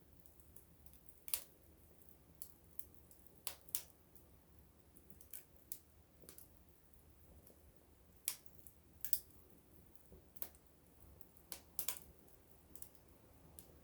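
Small wood fire crackling: irregular sharp pops and snaps, about a dozen, some in quick pairs, over a faint low steady hum.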